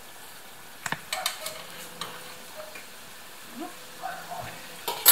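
Curd-dough kalachiki frying in hot oil in a pan, a steady sizzle. A few sharp clicks come about a second in and a loud knock near the end.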